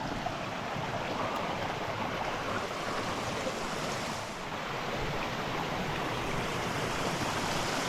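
Steady rushing of a mountain creek's running water.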